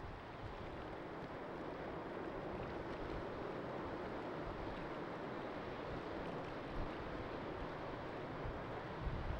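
Steady rushing roar of a jet airliner's engines passing at a distance, swelling slightly through the middle, with wind buffeting the microphone.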